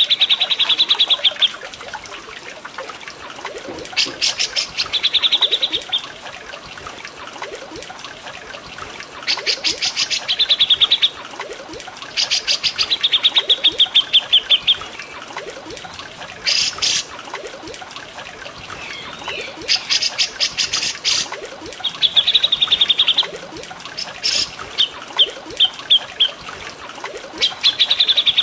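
Songbirds of a cucak jenggot and cililin master recording giving bursts of fast, chattering trilled notes every few seconds, over a steady trickle of running water.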